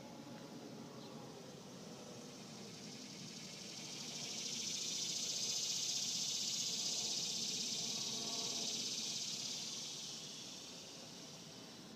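A cicada's buzzing call: a high-pitched drone that swells up about four seconds in, holds loud for several seconds, then fades away near the end.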